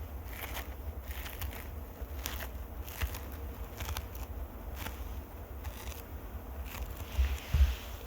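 Close-miked ASMR microphone scratching: irregular scratchy crackles and light taps on the mic, with a few heavier low thuds near the end.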